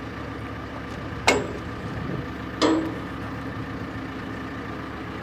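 An engine idles steadily throughout, most likely the machine whose forks are being rigged. Two sharp clanks with a brief ring come about a second and a half apart, the first the louder.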